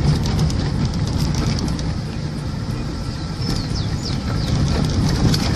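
Car driving along a bumpy dirt road, heard from inside the cabin: a steady low rumble of engine and tyres, with frequent small knocks and rattles as the car jolts over the rough surface.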